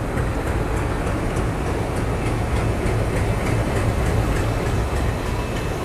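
DEMU diesel multiple-unit train running out of the station just after departure: a steady low rumble of engine and wheels on the rails.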